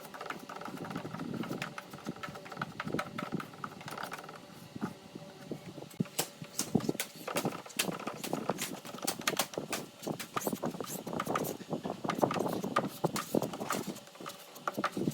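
Irregular knocks and clicks with some scraping, coming more densely from about six seconds in.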